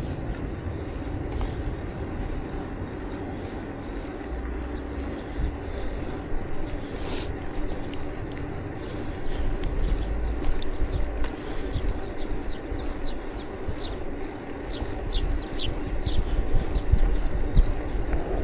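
Wind buffeting the microphone and rolling noise of a bicycle on the move, with gusty low rumble that swells and fades. A scatter of short high chirps comes in near the end.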